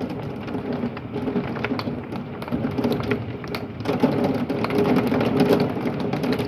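Heavy thunderstorm rain pelting down, a dense wash of noise full of sharp little taps, growing louder about four seconds in as the downpour gets worse.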